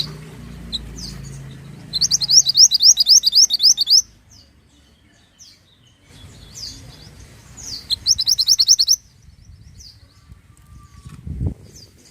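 Mantenan bird singing: scattered high chirps and two loud bursts of rapid, high repeated notes, about five a second, one near the start and one about two-thirds in.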